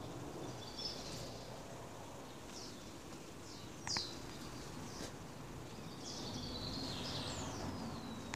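Small birds chirping, with several short chirps and a few falling whistles, and one louder sharp call about four seconds in, over a steady low background rumble.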